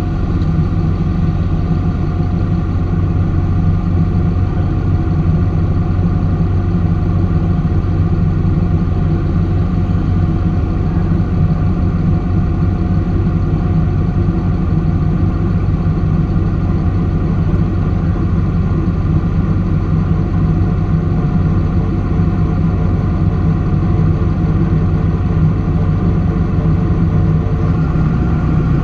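Engine idling steadily, a low even sound with no revving.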